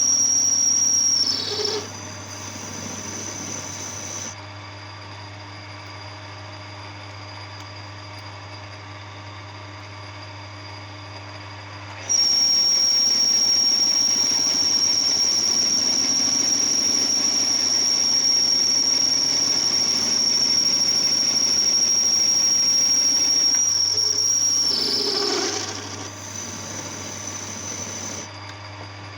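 Power tool running with a steady, high-pitched squealing whine over a low hum. The whine is loud for the first second or so, drops away, and comes back loud from about twelve seconds in until near the end.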